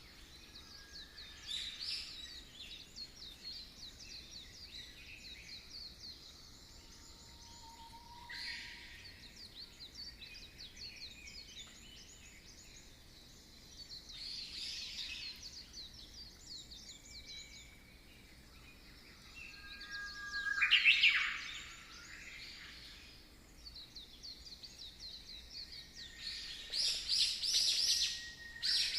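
Birds chirping and trilling, many short calls overlapping, with one louder call about twenty seconds in and a busier stretch of calls near the end.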